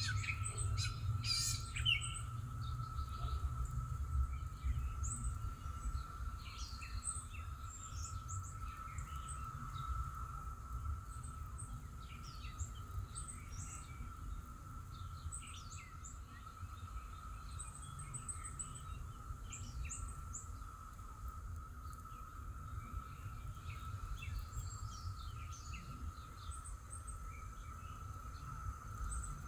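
Songbirds chirping and singing, short calls scattered throughout, over a continuous steady high hum and a low rumble.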